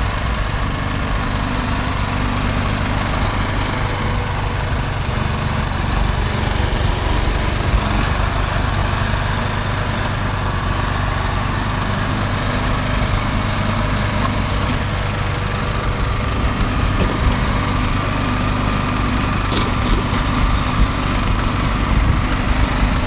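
Craftsman 208cc two-stage snowblower's single-cylinder engine running steadily while the machine clears snow.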